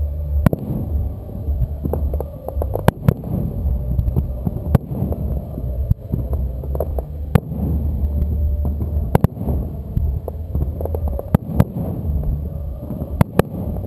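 Fireworks display: aerial shells bursting with about a dozen sharp bangs, irregularly spaced, over a heavy, pulsing low rumble.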